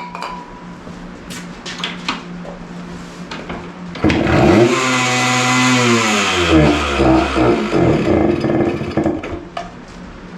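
Light clicks and knocks, then about four seconds in a 1974 Yamaha DT100's single-cylinder two-stroke engine fires, revs up and falls back, running unevenly for about five seconds before it dies. It is a first start on a sprayed-in starting aid, with the carburettor still uncleaned.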